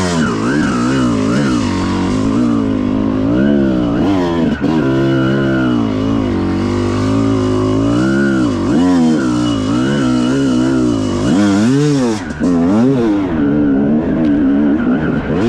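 Dirt bike engine being ridden, its pitch rising and falling again and again as the throttle is opened and closed, with a brief drop in revs about twelve seconds in.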